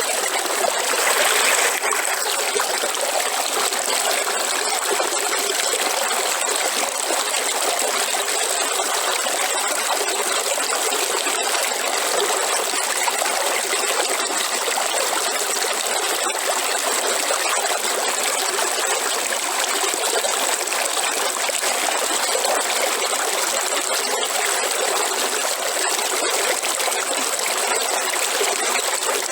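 River water flowing steadily, an even rush with a brief louder swell about a second in.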